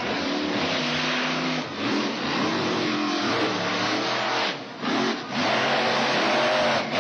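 Monster truck engine revving hard, its pitch rising and falling. The sound drops out briefly twice about five seconds in.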